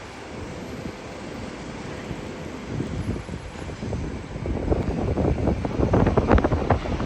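Wind buffeting the microphone, an irregular low rumble that grows stronger and gustier about halfway through.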